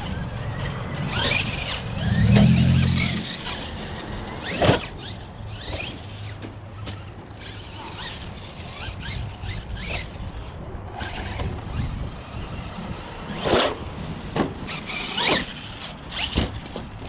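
Electric RC monster trucks running: brushless motor whine with tyres squealing. Motors surge loudest about two seconds in, and sharp knocks of trucks landing and hitting the ground come several times, mostly near the end.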